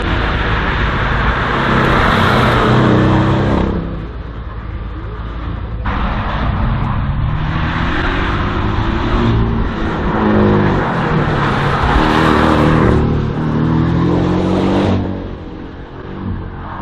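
Race car engine revving hard through a slalom course, repeatedly accelerating and backing off. The pitch climbs and drops several times, and the car eases off briefly about four seconds in and again near the end.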